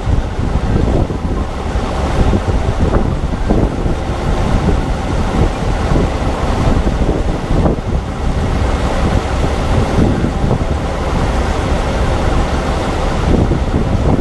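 Heavy farm machinery engine running steadily under load, with wind buffeting the microphone.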